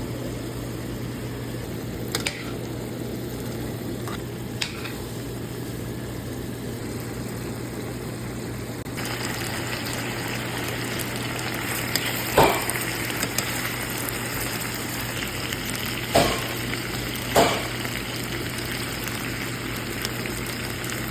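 Quail adobo cooking in a pan: a steady sizzle that grows louder about nine seconds in, with a few sharp clacks of a utensil against the pan. A low steady hum runs underneath.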